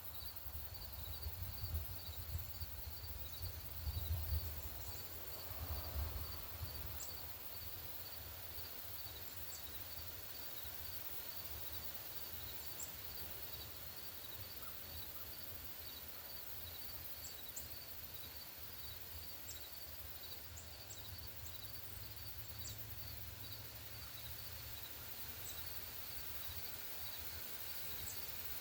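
Outdoor ambience: a steady, high rhythmic chirping repeats a few times a second throughout, with scattered short, sharp bird chip notes above it. A low rumble like wind on the microphone comes and goes in the first six seconds.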